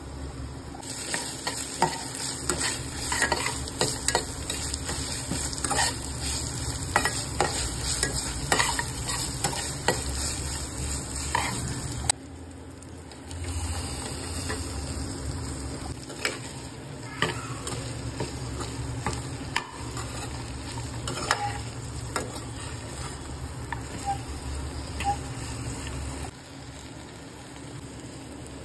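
Onions, peanuts and spices sizzling in hot oil in a non-stick kadai, with frequent clicks and scrapes of a spatula stirring. The sizzle drops suddenly about twelve seconds in, then carries on steadily as chopped okra is frying in the pan, and drops again near the end.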